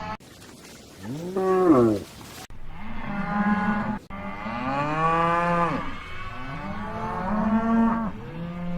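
Cattle mooing: a string of separate moos, several long and drawn out, joined from different recordings with abrupt cuts between them. The loudest is a short moo about a second and a half in that rises and then falls in pitch.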